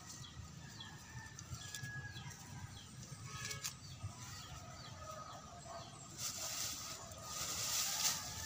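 Small birds chirping in a quick series of short, falling chirps. From about six seconds in, a louder, hissy rustle, like plastic sheeting being handled.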